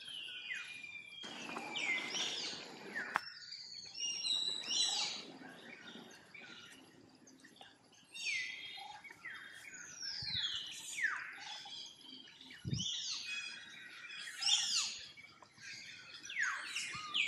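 Birds chirping and calling again and again, many short high notes that slide quickly downward. About a second in there is a two-second burst of hissing noise that ends in a sharp click.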